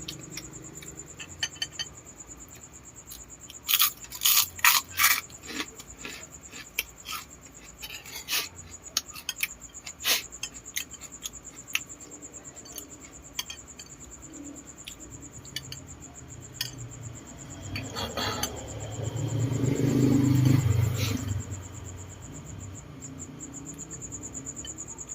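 Eating balut: scattered sharp clicks and taps of eggshell and utensils, clustered a few seconds in and again around ten seconds. A louder low, muffled sound swells about nineteen to twenty-one seconds in, over a faint steady high-pitched whine.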